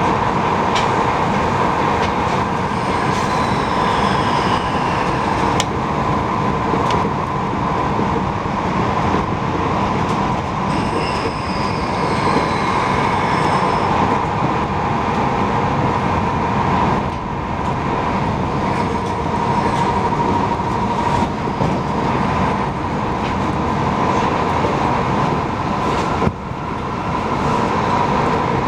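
Passenger train running along the line, heard from aboard: a steady rumble of wheels on rail with a constant hum. Faint high squeals slide down in pitch about three seconds in and again around eleven to fourteen seconds.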